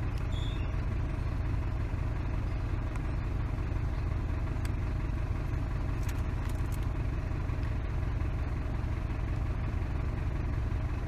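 Isuzu D-Max engine idling steadily with its air-conditioning compressor clutch not engaging, so the idle stays unchanged. There are a few faint ticks in the middle.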